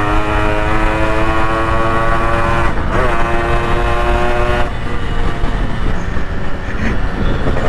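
Motorcycle's fitted 'German' horn sounded in two long blasts, the first held until nearly three seconds in and the second, after a brief break, for about a second and a half, over engine and road noise while riding.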